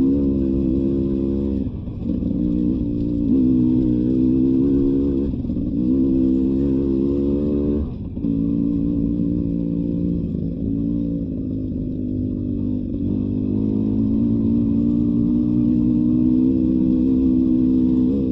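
Beta 300 RR two-stroke dirt bike engine running on a trail, its pitch rising and falling with the throttle. The throttle briefly closes about two seconds and eight seconds in.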